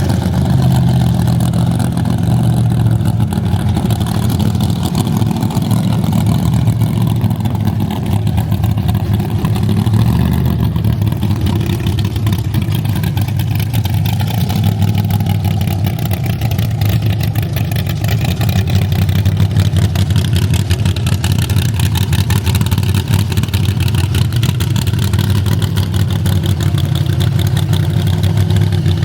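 Car engine running steadily at a fast, even idle, with no big revs.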